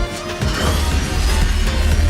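Film action soundtrack: loud dramatic score over a heavy low rumble, with crash and impact effects mixed in. The rumble drops out briefly at the start and comes back about half a second in.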